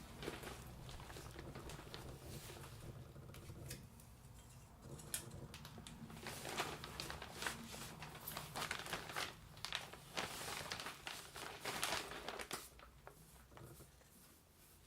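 Irregular clicks, scrapes and rustles of hand work on PVC plumbing parts, busiest in the middle, over a low steady hum that drops away near the end.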